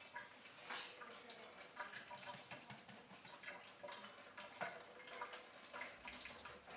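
Faint, irregular small clinks and taps of cutlery against bowls and dishes as people eat soup.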